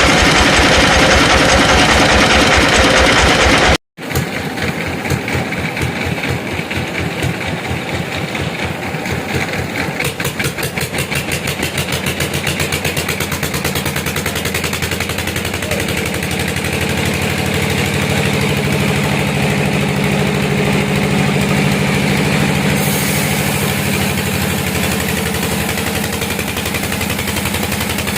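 Engine-driven sawmill machinery running. About four seconds in the sound cuts off abruptly, then another engine starts up with a fast, even pulse and settles into a steady drone.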